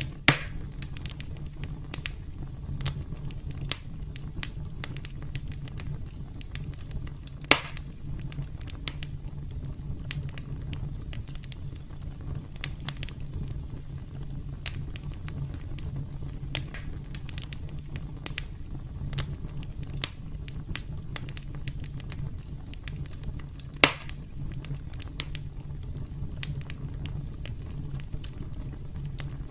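Campfire burning with a steady low rumble and constant small crackles and pops, three of them sharp and loud: one right at the start, one about a quarter of the way in and one near the end.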